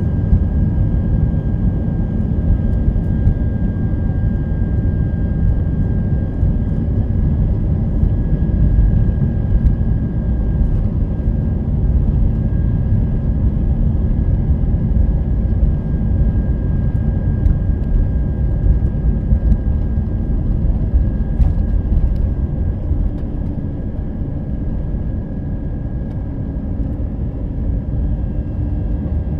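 Cabin noise inside an Airbus A319 during takeoff and climb: its IAE V2500 engines at high thrust make a steady, loud rush weighted to the low end. A thin, steady high tone rides over it.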